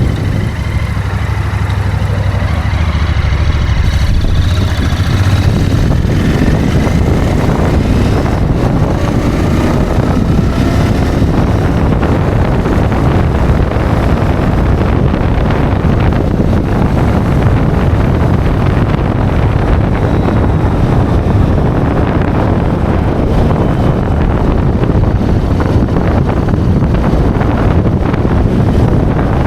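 Interceptor motorcycle engine running through its stock exhaust while being ridden, with wind buffeting the microphone. There are a few brief rises in pitch in the first third.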